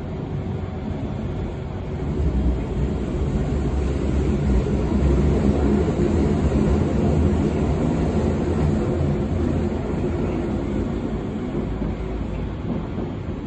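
Berlin U-Bahn train on line U3, a steady low rumble and rattle of the running train. It grows louder about two seconds in and eases off slightly toward the end.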